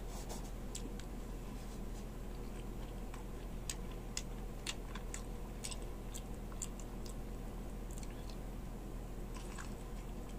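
A man chewing and biting into fried beef shank on the bone, close to the microphone: irregular sharp mouth clicks and chewing noises over a steady low hum.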